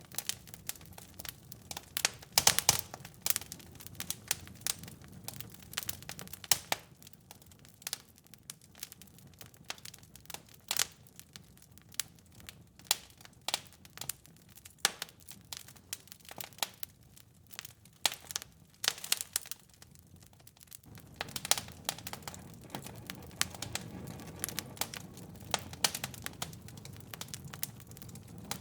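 Wood fire in a fireplace crackling, with irregular sharp pops and snaps over a low rumble. The rumble drops away about seven seconds in and returns about twenty-one seconds in.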